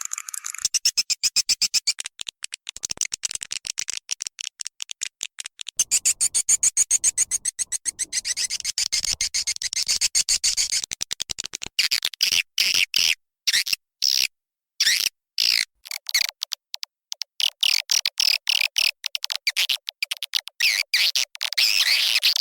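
Swiftlet calling sound, a lure recording for swiftlet nest houses: fast trains of high clicks mixed with twittering chirps. About halfway through it turns into choppy bursts with brief silent gaps.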